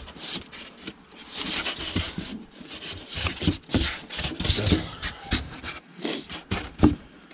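Cardboard and plastic packaging scraping and rustling, with a few knocks, as a new cordless chainsaw is handled and unpacked from its box.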